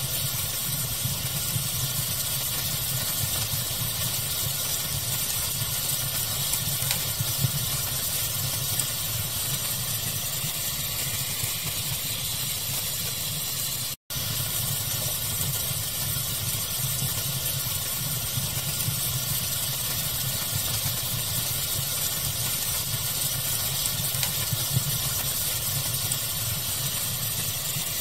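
Steady pink-noise hiss of a fire ambience track, with faint crackling and a few slightly louder pops. The sound cuts out for an instant about halfway through.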